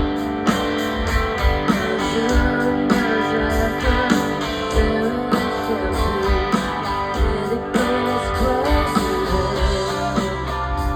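Live rock band playing, with strummed and lead guitars over a steady kick drum.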